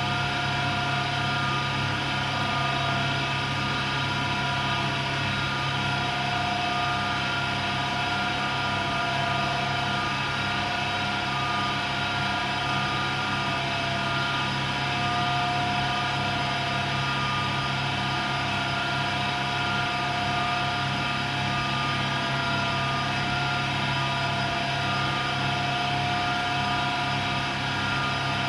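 AEG Lavamat Turbo washer-dryer running steadily in the last part of a wash-and-dry programme, likely the drying phase. It gives a constant machine hum with a steady, unchanging whine.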